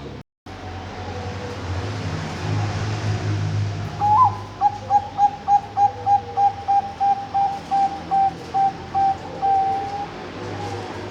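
Bangkok-type zebra dove (perkutut) singing: an opening note, then a quick even run of short coos, about four a second, closing on a longer held coo.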